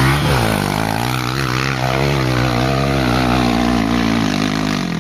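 Off-road motorcycle engine revving hard under load on an uphill climb, its pitch wavering as the throttle is worked, starting to fade near the end.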